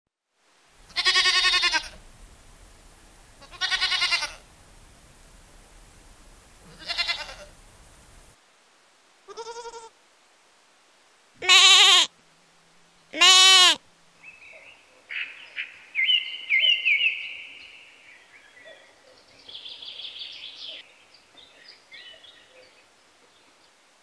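Goats bleating: six quavering calls, three in the first eight seconds and three more between about nine and fourteen seconds in, the last two the loudest. Softer, higher chirping calls follow.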